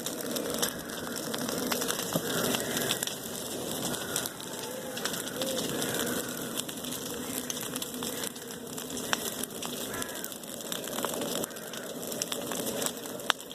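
Bonfire crackling steadily with many small snaps, and a sharp pop near the end. Birds calling faintly in the background.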